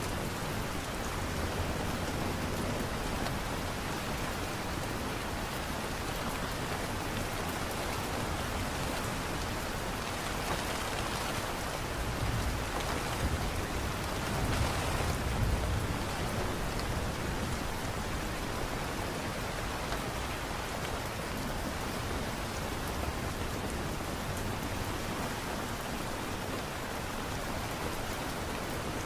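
Steady light rain, an even hiss of drops falling on a surface. A low rumble swells briefly about halfway through.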